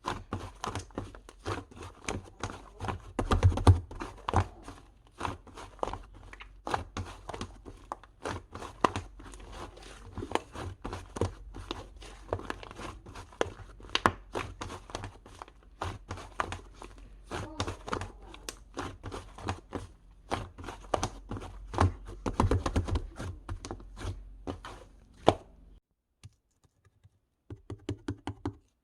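Hands handling and squeezing a soft, crinkly object, making a dense run of irregular crackles, clicks and crinkles. It stops about 26 seconds in, then a few more clicks follow near the end.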